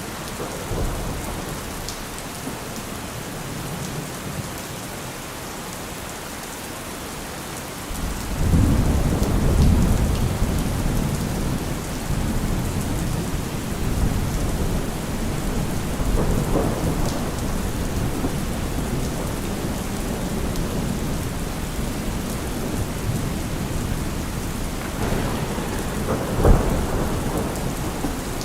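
Steady rain with rolling thunder. A low rumble breaks in about a third of the way through and rolls on, and a sharper thunderclap comes near the end.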